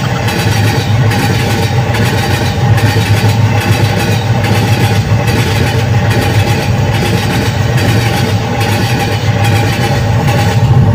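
A train sound effect: a locomotive running with a steady, rhythmic chugging, nearly two beats a second, over a constant engine hum.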